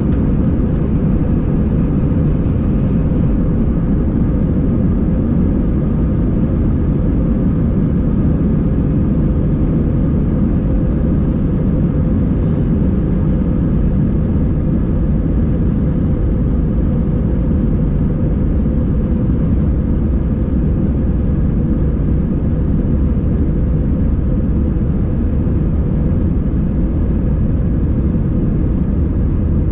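Steady cabin noise inside an Airbus A320 under way: a low, even rumble of the jet engines and airflow with a faint steady hum on top.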